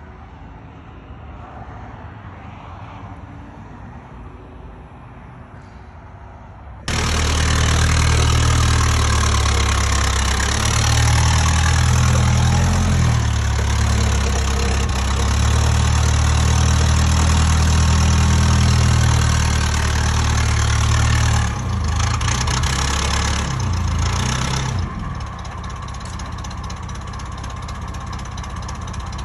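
A large engine comes in suddenly about seven seconds in and runs loudly, with a deep steady hum under a hiss. About three-quarters of the way through it drops to a lower, steadier running level.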